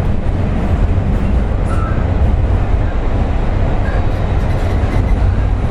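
Running noise inside a JR West 201 series electric train's motor car: a steady, loud rumble of motors, wheels and rails while the train is under way.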